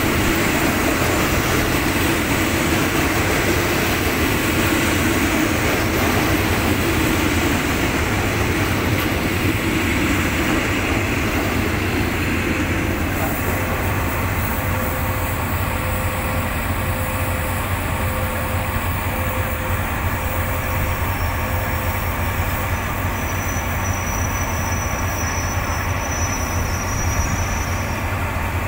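Passenger coaches rolling slowly past on jointed track, their wheels and running gear rumbling and rattling, then easing off as the last coach clears about halfway through. Under it, a diesel locomotive idles with a steady low hum.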